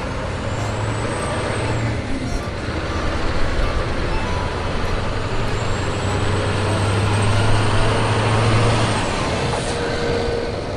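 Truck engine running: a steady low drone under a loud rushing noise, with a faint high whine that swells twice.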